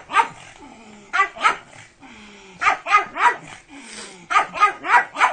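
Pug barking, sharp high barks in quick runs of two to four, about ten barks in all.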